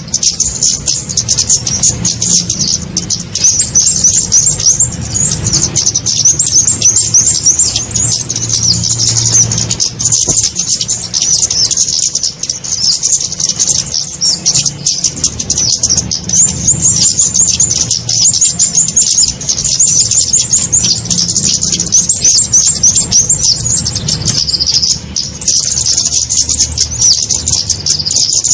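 High-pitched, rapid chirping and ticking calls of flowerpeckers (kemade, cabe-cabean), repeated continuously as a bird-lure recording, over a low hum.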